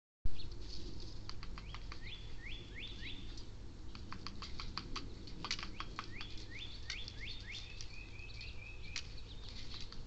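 Songbirds calling in the yard: groups of rising whistled notes, three about two seconds in and four more about six to seven and a half seconds in, then a quick run of short chirps near nine seconds. Many sharp clicks and taps are scattered throughout, over a steady low hum.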